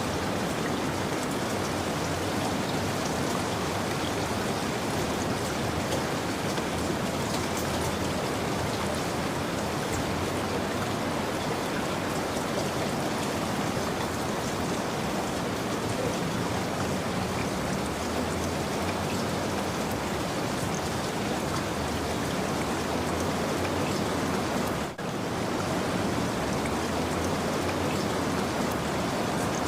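Steady rain falling, an even hiss of drops, with a brief momentary dropout near the end.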